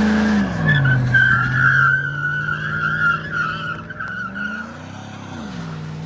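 Pickup truck engine coming down off a rev and running at a steady higher idle while its tyres squeal for about four seconds in a burnout. A second short rev rises and falls near the end.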